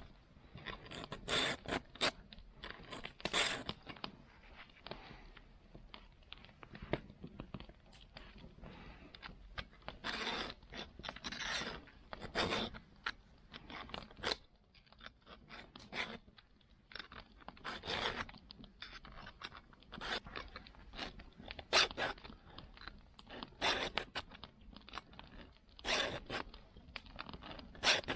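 Short rasping scrapes of a file worked on a saw, in irregular strokes every second or two, some sharper and louder than others.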